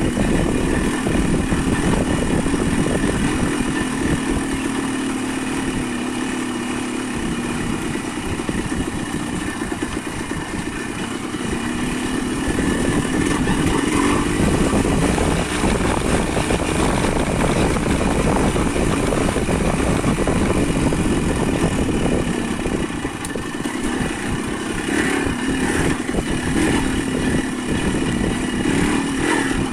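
Motorcycle engine running steadily over a continuous noisy hiss, its pitch rising and falling a little with the throttle.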